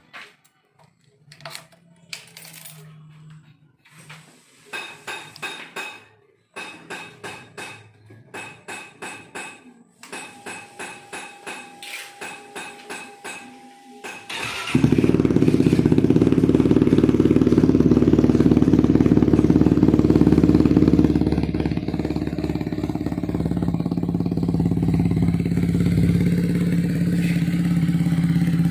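Benelli TRK 251's single-cylinder engine starting about halfway through and idling steadily through an aftermarket Japstyle full-system exhaust, the idle easing down a little several seconds after the start. Before it, a run of quick rhythmic clicks.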